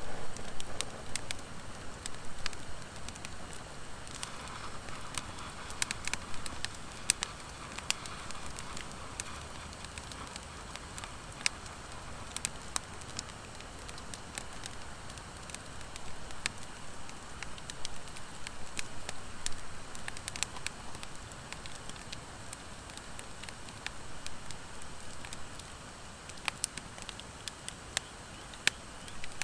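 Wood fire of driftwood and dry hardwood logs crackling, with irregular sharp pops over a steady low rush of burning.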